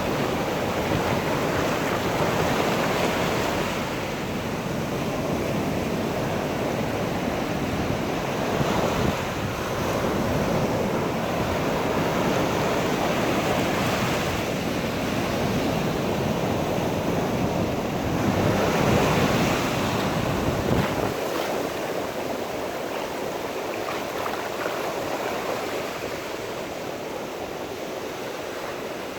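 Sea waves breaking on a shore, surging and easing every few seconds, with wind rumbling on the microphone; the wind rumble drops away about two-thirds of the way through.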